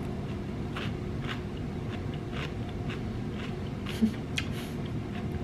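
Chewing a crisp raw bell pepper slice: a few faint crunches over a steady low room hum.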